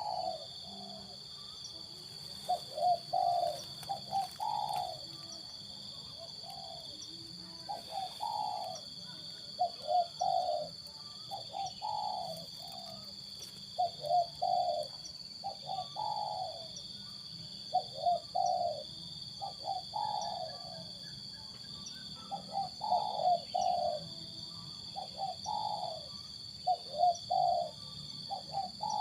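Spotted dove (tekukur) cooing in vigorous song: repeated phrases of a few low notes, about one phrase every two seconds, over a steady high-pitched hum.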